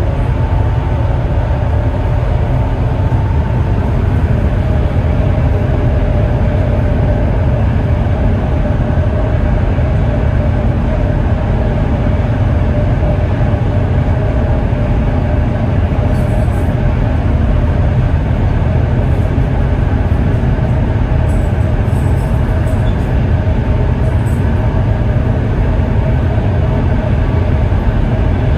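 Chinese high-speed train running at speed, heard from inside the carriage: a steady low rumble and rush with a faint even hum over it.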